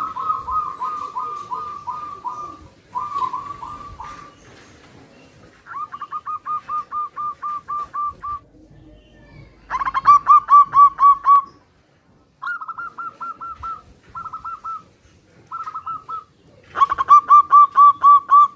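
Zebra doves (perkutut) cooing and answering one another. Each call is a bout of quick, evenly repeated notes. About eight bouts follow with short gaps between them, some louder than others.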